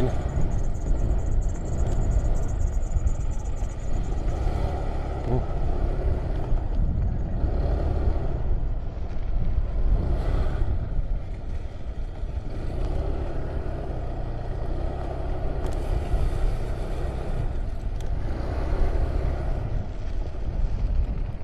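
Motorcycle running while being ridden, with heavy wind rumble on the rider's microphone.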